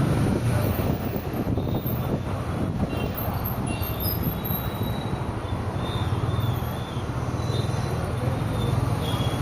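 Steady road noise from a car driving through city traffic: a low engine and tyre drone with faint high whining tones above it.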